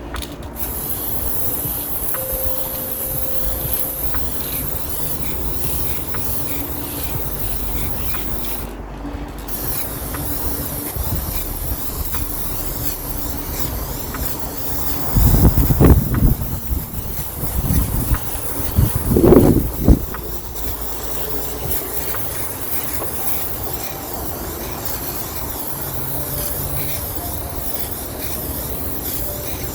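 Aerosol can of gold chrome spray paint hissing in long sprays, cut off briefly about nine seconds in. Wind rumbles on the microphone throughout, with two loud gusts around the middle.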